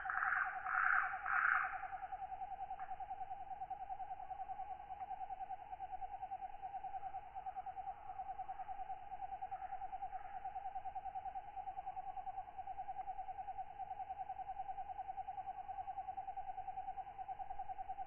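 Night insect chorus: a steady, rapidly pulsing trill throughout, with a few louder raspy katydid calls in the first two seconds.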